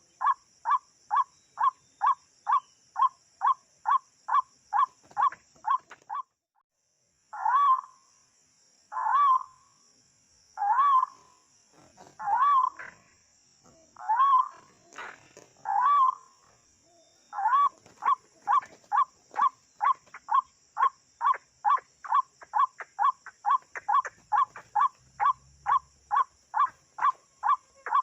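White-breasted waterhen calling: a long run of short, evenly repeated calls, about two and a half a second. They break off for about a second, slow for several seconds to drawn-out single calls about every second and a half, then speed up again to the fast rhythm.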